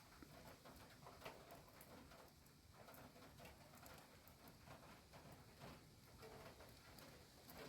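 Faint rain, with scattered drops ticking and pattering irregularly over a soft background hiss.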